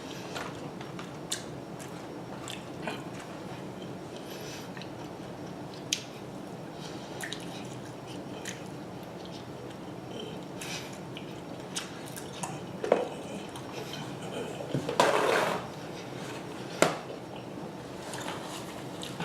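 Close-up chewing and wet mouth sounds of someone eating buffalo chicken wings, with scattered small clicks and smacks and a louder noisy burst about 15 seconds in.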